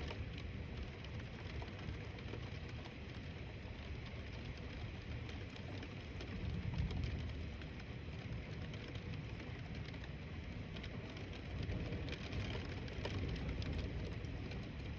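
Steady rain falling, with low rumbles of distant thunder swelling about six seconds in and again about twelve seconds in.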